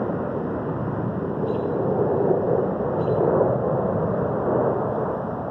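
Jet aircraft flying past, a steady rushing roar that swells around the middle and eases off toward the end.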